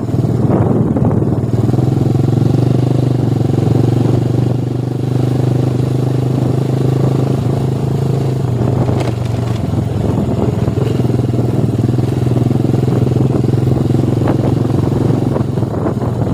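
Motorcycle engine running steadily under way, with a brief drop in level about five seconds in.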